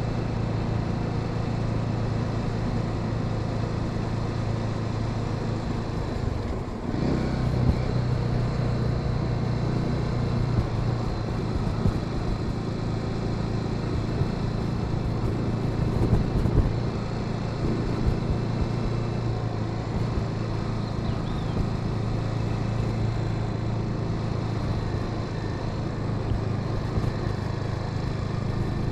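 Honda Sahara 300's single-cylinder engine running steadily under way, heard from the rider's seat with road and wind noise around it. About seven seconds in the note dips briefly, then picks up again a little higher.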